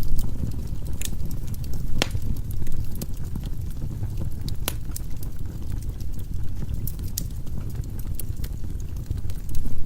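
Firewood logs burning in a fireplace: a steady low rumble of flame with scattered sharp crackles and pops, two louder pops about two seconds in and near the middle.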